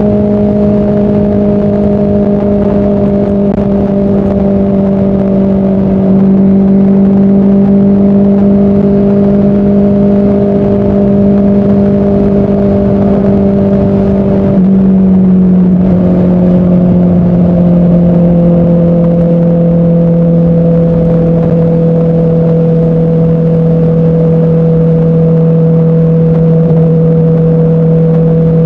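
Motorcycle engine running at a steady highway cruise under a steady rush of wind and road noise. About fifteen seconds in the engine note steps down in pitch, then holds steady at the lower note.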